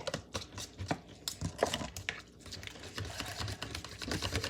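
Rapid, irregular light clicks and taps of kitchen utensils and dishes being handled while the noodles are prepared.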